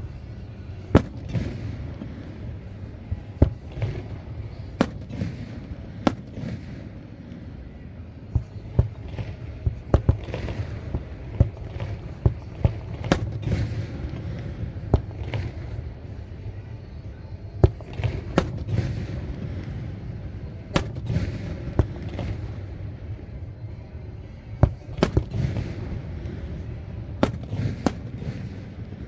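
Aerial fireworks shells bursting in an irregular barrage of sharp bangs, several in quick clusters, over a continuous low rumble.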